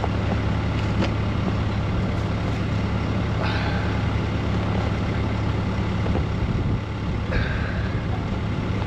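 Diesel engine of a Bobcat T66 compact track loader running steadily with a low, even hum.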